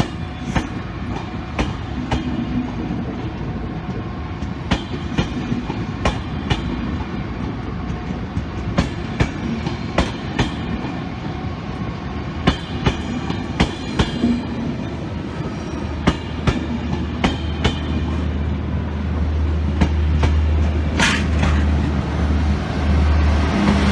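Train moving through the station, its wheels clicking repeatedly over rail joints over a steady rumble. About two-thirds of the way in, a deep diesel engine drone comes in and grows louder.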